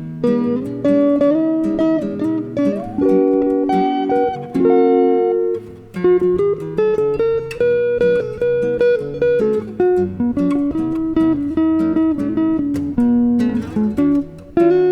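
Guitar duo of a nylon-string flamenco guitar and a Telecaster electric guitar playing a jazz tune: plucked melody notes over chords, with a quick run of note onsets.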